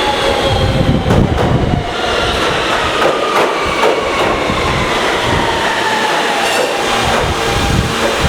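An R160B subway train's Siemens propulsion whines in several tones that slide slowly down in pitch as the train slows. The wheels rumble and knock now and then over the rail joints.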